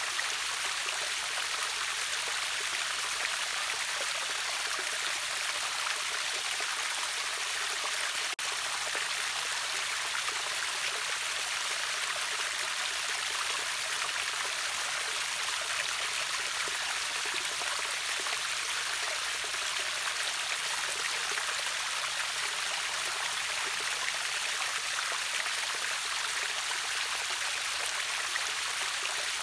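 River water pouring over a small waterfall: a steady, even rush of water, bright and hissy, with no change in level.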